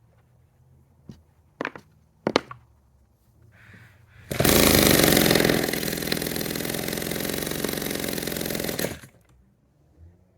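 1946 Power Machinery chainsaw engine: a few sharp knocks, then the engine fires and runs for about four and a half seconds, loudest at first before settling to a steady run, and then cuts out.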